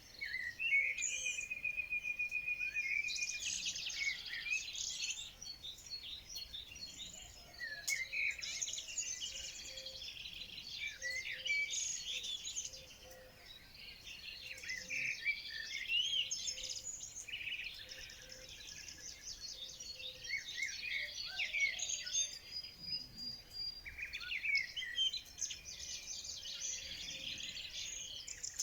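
A chorus of several songbirds singing and chirping together, with overlapping trills and short whistled notes, one of them a fast even trill about two seconds in.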